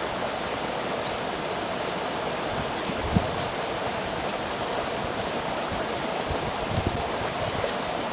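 Stream water flowing in a steady rush, with a few brief high chirps over it.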